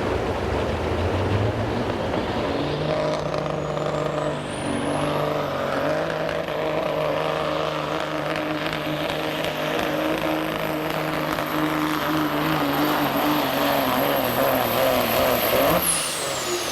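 Limited pro stock semi truck's diesel engine at full throttle pulling a sled, its turbocharger whine rising to a high pitch over a few seconds and holding there. Near the end the throttle is let off and the whine drops away sharply.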